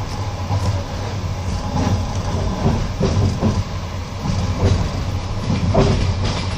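Passenger train carriage running along the line, heard from inside: a steady low rumble with the clack of the wheels knocking over rail joints every second or so.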